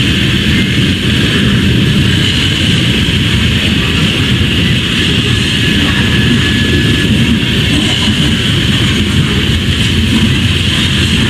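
Loaded coal hopper cars of a freight train rolling past, a loud, steady rumble of steel wheels on rail with a hiss above it.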